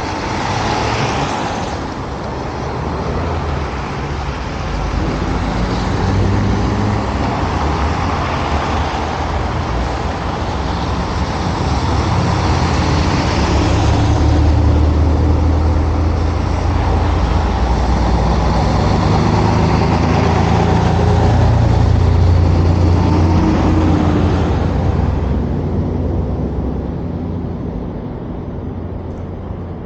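Road traffic passing close by: vehicle engines running and tyres on the road. It builds up, is loudest through the middle, and fades near the end.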